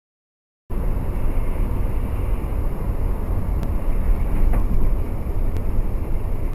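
Steady low rumble of a moving car's engine and road noise. It starts abruptly under a second in, after silence, with a few faint clicks over it.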